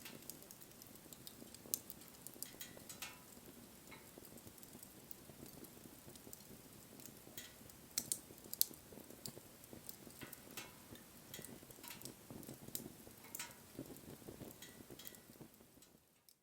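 Wood bonfire burning, crackling with irregular sharp pops and snaps over a soft low rustle of the flames, fading out near the end.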